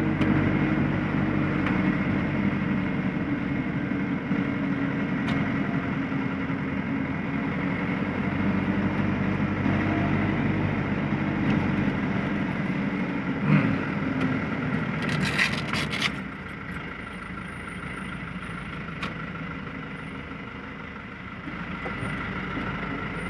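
Truck engine running, its pitch sinking as the truck slows, with a knock and then a second-long hiss about fifteen seconds in. After that the engine runs more quietly, as at idle.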